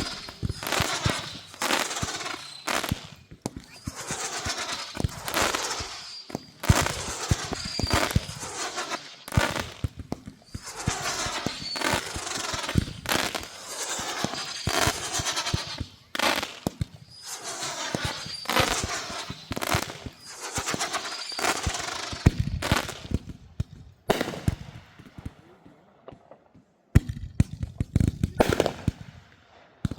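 Consumer fireworks going off in rapid clusters of sharp cracks and bangs, a new cluster about every two seconds. After about 24 seconds they thin to a few scattered bangs.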